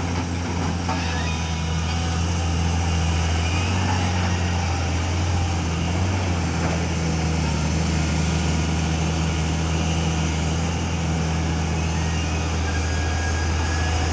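Heavy diesel engine running steadily with a deep, even hum, getting slightly louder about two seconds in.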